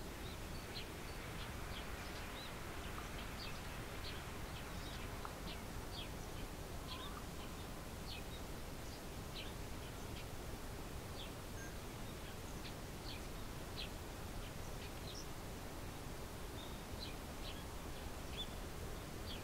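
Small birds chirping: many short, high chirps scattered irregularly over steady low background noise.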